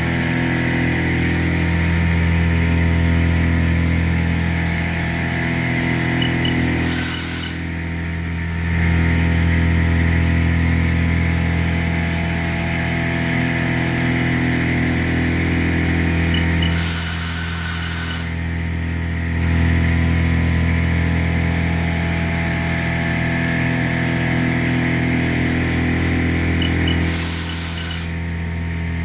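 Milling machine cutting 304 stainless steel with a high-feed cutter: a steady machine hum with several held tones. A short hissing burst breaks in three times, about ten seconds apart, each followed by a brief dip in the sound.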